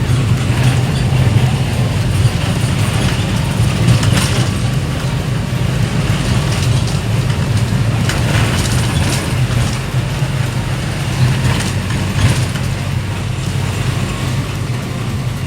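Steady engine drone and road noise from a moving vehicle, heard from on board, with a few faint brief knocks.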